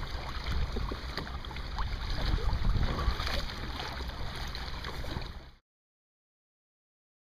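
Wind buffeting the microphone over water sloshing around a fishing kayak, with small scattered knocks and splashes. The sound cuts off dead about five and a half seconds in, leaving total silence.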